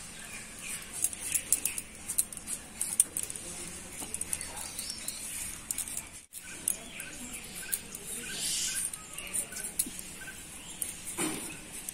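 Small birds chirping, with many short high chirps and, in the second half, a run of short evenly spaced notes at about two or three a second.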